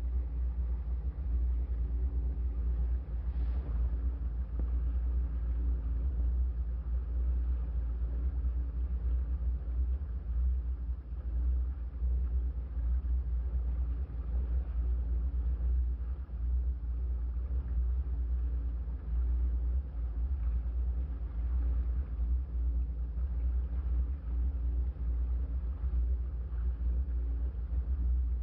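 Boat engine running steadily at trolling speed, a low, even rumble with a faint hum above it.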